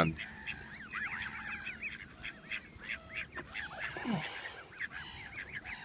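A crowd of waterfowl calling over one another, a busy stream of short repeated calls.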